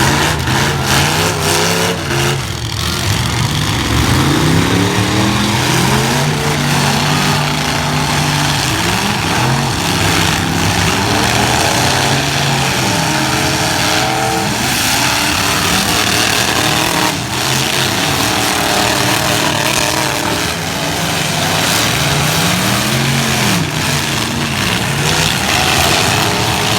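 Several truck engines revving hard and running together at a demolition derby, their pitches rising and falling, with a few sharp bangs of trucks hitting each other.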